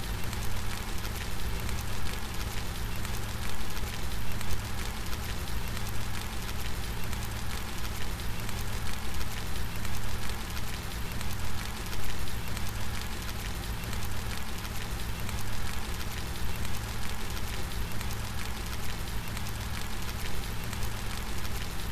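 Steady rain falling, a dense even hiss of drops with a low rumble underneath, its loudness rising and falling slightly.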